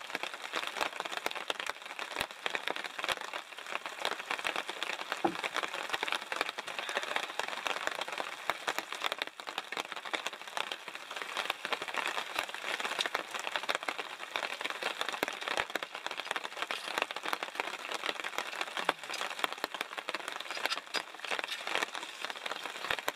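Steady rain falling, with a dense patter of many small drops ticking.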